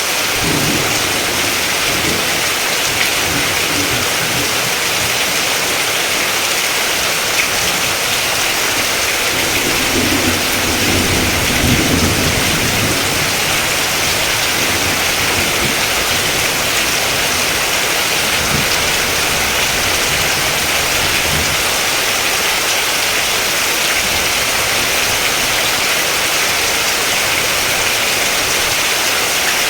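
Steady heavy rain hissing, with low rolls of thunder rumbling under it: a short one at the start, the loudest about ten to twelve seconds in, and another about two-thirds of the way through.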